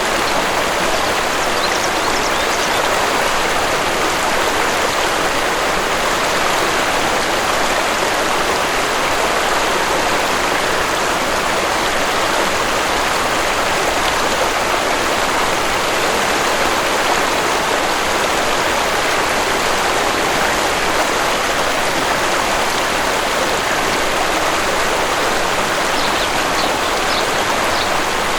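Waterfall water rushing steadily in an even, unbroken wash. A few faint high bird chirps come about two seconds in and again near the end.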